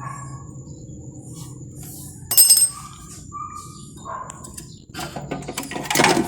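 Small birds chirping in short calls, with a sharp ringing clink about two and a half seconds in and a louder burst of rustling or handling noise near the end.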